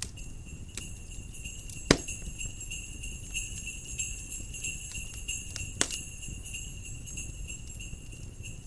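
Jingle bells shaking steadily, ringing bright and high. Underneath is a crackling wood fire, with two sharp, loud pops: one about two seconds in and another near six seconds.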